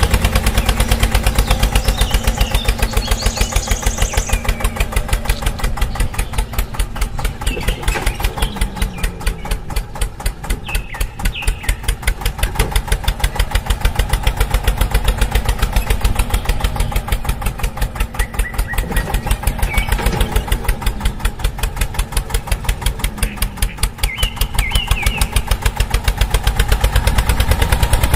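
A tractor-style engine chugging steadily with a fast, even beat.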